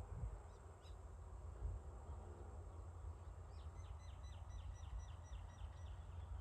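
A bird calling a quick run of about ten short, evenly spaced high chirps a little past the middle, over a steady low rumble of wind on the microphone.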